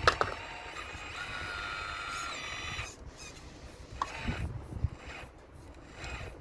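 RC model excavator's small motors whining steadily for about three seconds, then stopping, with a sharp knock at the start and a lighter knock about four seconds in.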